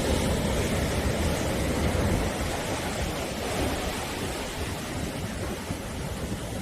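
Sea waves washing onto the shore, a steady rush of surf that is loudest in the first two seconds and then gradually eases off.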